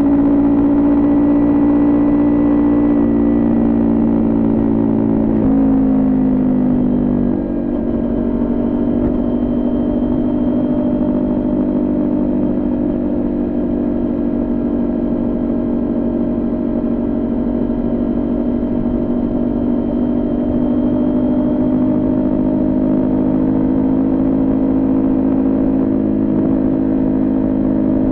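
Kawasaki Ninja 400 parallel-twin engine, fitted with a Coffman exhaust, running under way at steady revs. The pitch dips about six to seven seconds in, then holds steady and slowly creeps higher.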